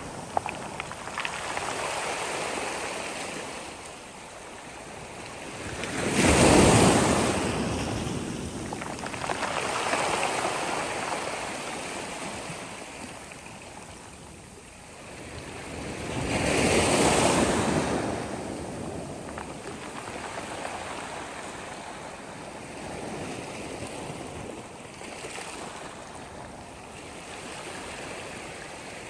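Sea waves breaking and washing up on a beach, two larger waves crashing about six and seventeen seconds in, with smaller wash between.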